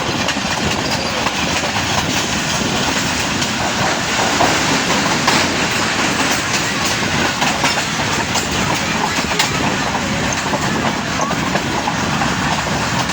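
Passenger train running on the track, heard from aboard a coach: a steady rumble and rattle with the clicks of the wheels passing over rail joints.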